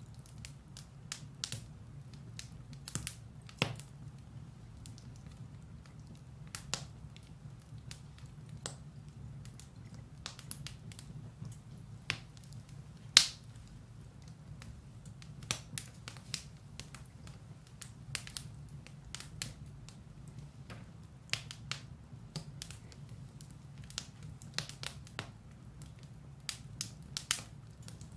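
Firewood burning in a fireplace, crackling with irregular sharp pops and snaps over a steady low rumble of the fire; one louder pop about 13 seconds in.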